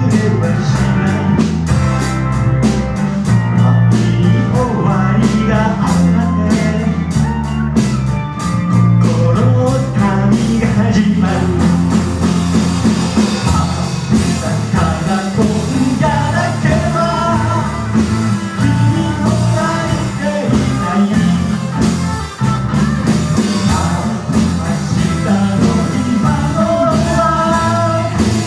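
Live rock band playing a song: drums, bass and electric guitar, with a melodic lead line coming through in the second half.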